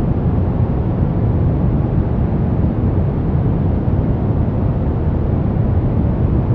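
Steady brown noise: an even, deep rumbling hiss with most of its weight in the low end and little treble, unchanging throughout.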